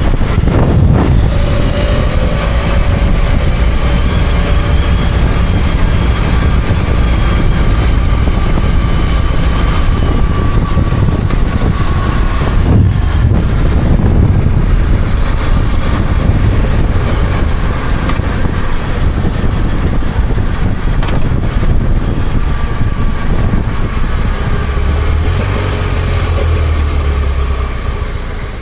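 BMW F800GS parallel-twin motorcycle engine running while under way, heard together with steady wind and road noise.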